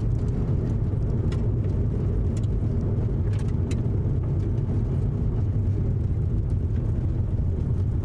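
Steady low road and engine rumble inside a moving car, with a few faint ticks.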